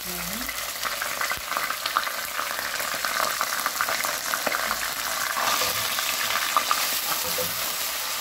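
Ginger-garlic paste sizzling and crackling in hot oil with fried onions, being stirred in the pot with a wooden spatula. The hiss is steady, dotted with many small pops, and grows brighter about five and a half seconds in.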